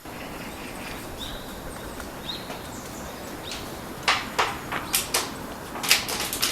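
White-backed woodpecker tapping on wood: a run of sharp, irregular knocks starting about two-thirds of the way in and coming more thickly near the end. Before that, two faint short high notes.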